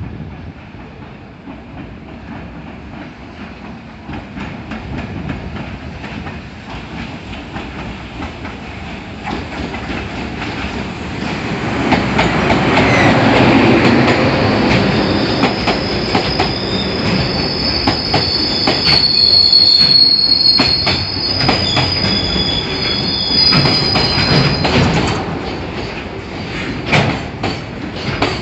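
A train running along the platform, its wheels clicking over rail joints and growing louder. Through the middle the wheels give a high steady squeal.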